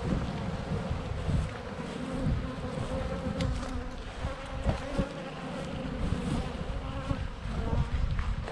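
Honeybees buzzing in a steady hum around an open hive, with low rumbling and scattered thumps underneath.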